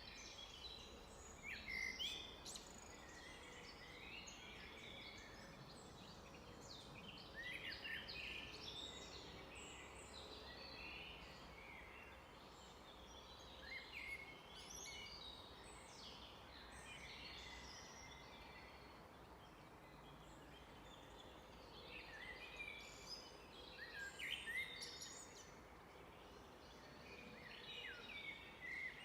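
Several wild birds singing and calling over one another: a steady scatter of short high chirps and whistles, busiest around a few moments, over a faint background hiss.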